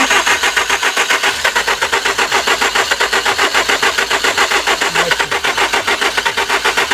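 2003 Nissan Altima's 2.5 L four-cylinder engine cranked over by the starter in a steady, even rhythm without catching: a crank-no-start with no spark at the grounded plug.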